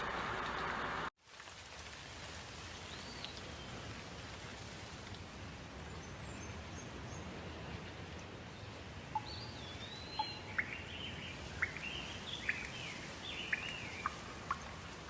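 Steady rain hiss that cuts off abruptly about a second in and gives way to a quieter rain ambience with birds calling: a few whistled chirps at first, then a busy run of sharp chirps and whistles in the second half.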